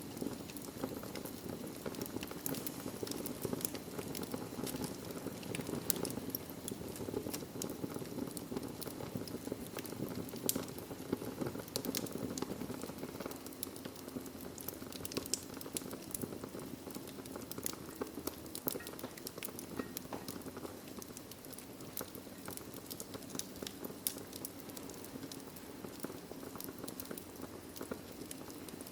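Wood fire crackling in a fireplace: a steady low rush from the flames, with many irregular sharp pops and snaps scattered through it.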